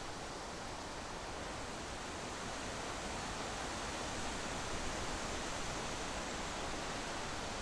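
Steady rushing wind and road noise from a vehicle driving along the road, even throughout and a little louder in the second half.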